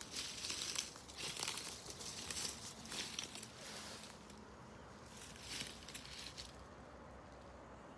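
Irregular crunching and rustling that dies away about six and a half seconds in, leaving a faint steady hiss.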